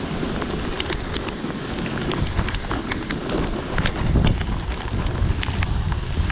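Heavy rain pelting a waterproof action camera, a dense patter of sharp drop hits, over wind rumbling on the microphone, with a stronger gust about four seconds in.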